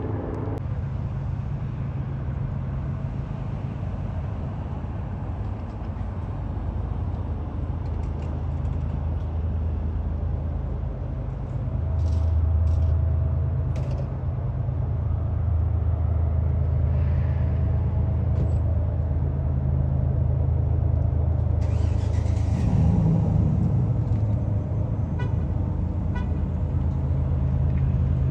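Road traffic with heavy trucks: a steady low diesel rumble that swells about twelve seconds in, with a brief hiss a little past two-thirds of the way through.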